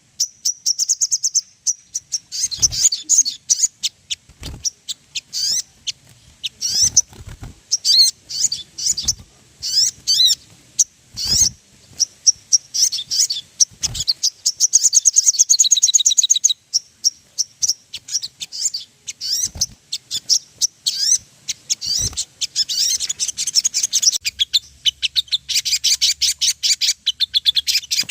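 Sogon songbird singing its lure call: quick, high-pitched chirps and twittering trills in rapid runs. There is a longer fast trill about fifteen seconds in, and near the end the notes run together into nonstop rapid chattering. A few short low thumps are scattered through it.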